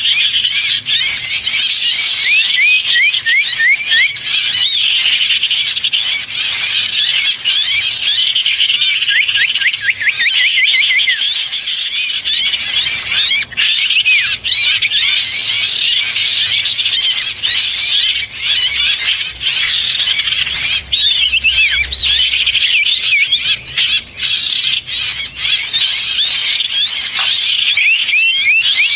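Dense, noisy chorus of many small songbirds chirping and twittering in rapid, overlapping short calls, a bird-lure recording made to draw small wild birds.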